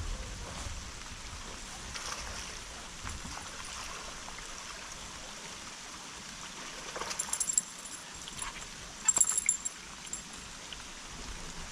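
Steady water noise, with two short bursts of sharp clicking and rattling about seven and nine seconds in.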